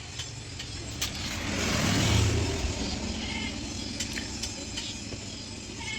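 Low background rumble that swells and fades about two seconds in, with a few faint clicks.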